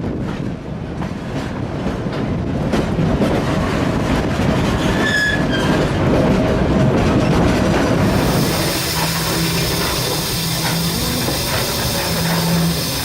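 Cumbres & Toltec narrow-gauge train running on the rails: a steady rumble and clatter of wheels on track, with a brief high wheel squeal about five seconds in. A loud hiss joins about eight seconds in.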